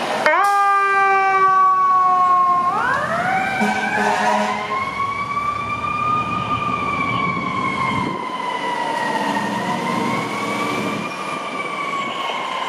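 A fire apparatus air horn blasts for about two and a half seconds, its pitch sagging slightly. Then the siren winds up and wails slowly up and down.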